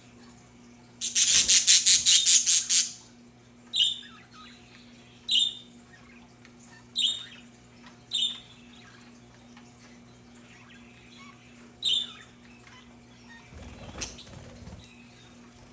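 Budgerigars calling: a loud, rapid run of harsh squawks for about two seconds, then a handful of short, sharp single calls a second or more apart.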